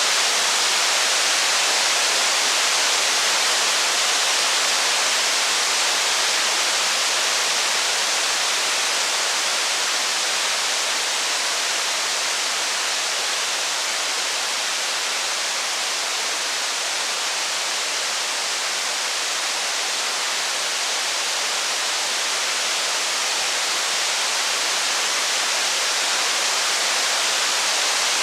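Steady heavy rain, a dense even hiss with no separate drops, crackles or thunder standing out.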